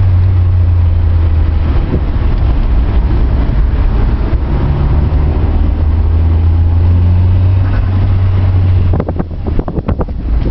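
Mitsubishi Lancer Evolution IX's turbocharged four-cylinder engine running under way, heard from inside the cabin as a steady low drone. About nine seconds in the drone drops off and a few sharp clicks and knocks follow.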